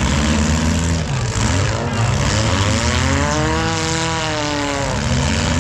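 Several junk car engines running together, with one revving up and back down about halfway through.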